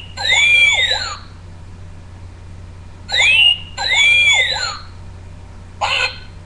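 Talking pet bird whistling a two-part phrase twice: a quick upward sweep, then a longer arching note, with a short call near the end.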